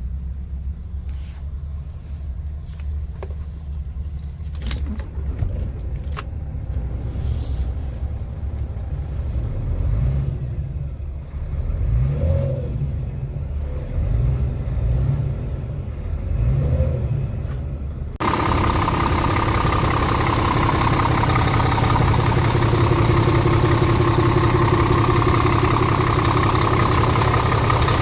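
Scania R truck engine running, its speed rising and falling several times. About two-thirds in, the sound cuts abruptly to a louder, steady engine sound with a high whine.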